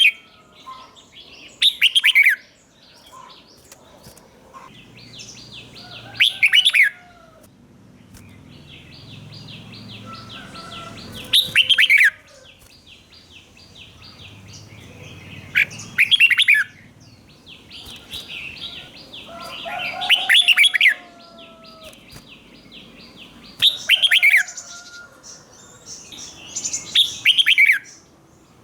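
Red-whiskered bulbul singing its short, loud, warbling phrases about every four seconds, seven times. Softer rapid chattering notes run in between the phrases.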